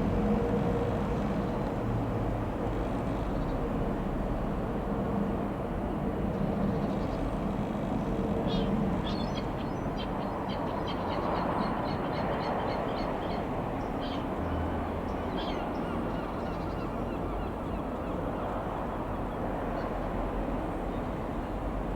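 Steady outdoor rumble, with a bird calling in a quick run of short high chirps for several seconds around the middle.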